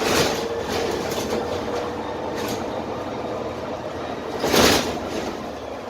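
Interior running sound of a Dennis Trident double-decker bus on the move: its Cummins diesel engine and Voith automatic gearbox drone with a steady whine under road and body noise. A short, loud burst of noise comes about four and a half seconds in.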